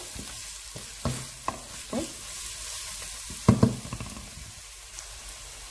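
Sautéed onions, green chillies and spice powder sizzling gently in oil over low heat while a wooden spatula stirs and scrapes the pan, with a few sharper knocks of the spatula, the loudest two about three and a half seconds in. The powders are being fried to cook off their raw smell.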